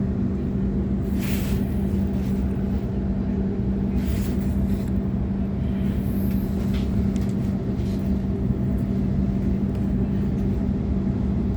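Sydney Trains Waratah electric multiple unit running between stations, heard from inside the carriage: a steady rumble of wheels on rail under a constant low hum, with a few brief hissing swishes.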